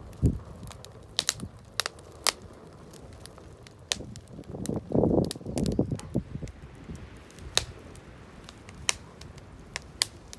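Wood campfire crackling: irregular sharp pops and snaps from the burning wood, a few a second at most. A lower rushing sound swells briefly about halfway through.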